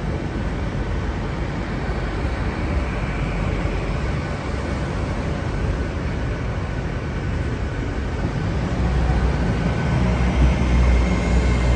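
TransPennine Express Class 802 train rolling slowly through the station with a steady rumble. About three-quarters of the way in a deep hum comes in and the sound grows louder.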